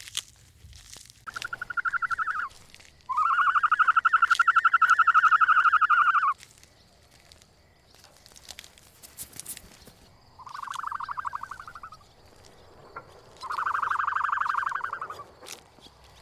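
A frog calling in four rapid pulsed trills, each a buzzing run of fast notes lasting one to three seconds. The second trill is the longest and loudest.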